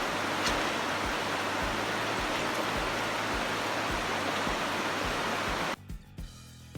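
Waterfall: a steady rush of falling water that cuts off abruptly about three-quarters of the way through.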